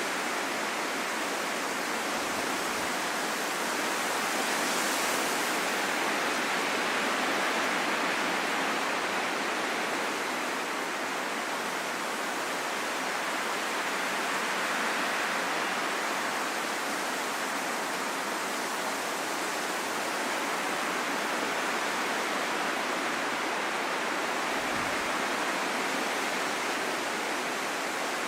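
Steady rushing wind, swelling and easing slowly every several seconds.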